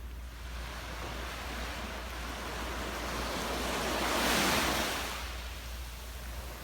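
Ocean surf on a beach: the wash of the sea builds to a wave breaking about four seconds in, then fades as it runs back.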